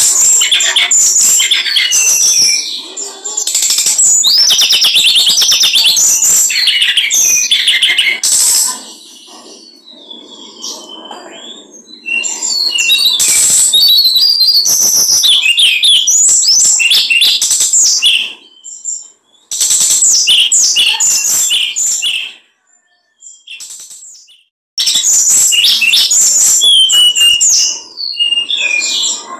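A small songbird singing loudly in long bursts of rapid, high chattering song, several phrases of a few seconds each with short pauses between.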